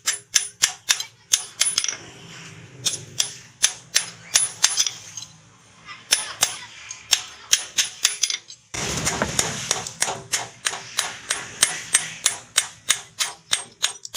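Hand hammer striking hot rebar on an anvil in quick, steady blows, about four a second, each with a bright metallic ring. The blows pause briefly about halfway through, and a short rushing noise rises under them about nine seconds in.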